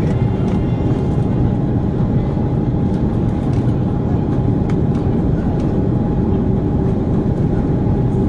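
Steady cabin noise of an Airbus A330-300 with Rolls-Royce engines in flight: a loud, even rumble of engines and airflow with a steady hum tone through it.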